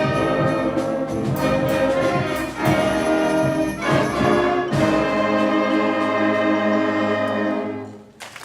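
A 5th and 6th grade concert band plays, with brass to the fore over regular drum strokes. About five seconds in, the band settles onto a long held final chord, which is cut off sharply just before the end.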